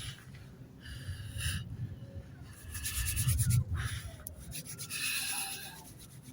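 Rustling and scraping in three bursts about a second long, the middle one the loudest, with clusters of small crackles.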